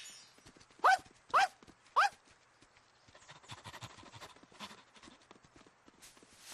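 Three short, loud chirps about half a second apart, each bending up and down in pitch, followed by a faint, quick patter of light footsteps.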